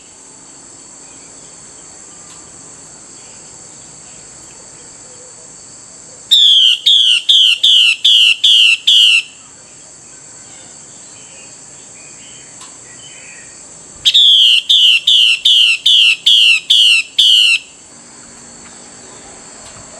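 Female Chinese hwamei (Hwamei laughingthrush) giving its harsh 'xùy' call, the call a hen uses to rouse male birds: two bouts of about seven or eight quick repeated notes, about six seconds apart. A steady high-pitched hum runs underneath.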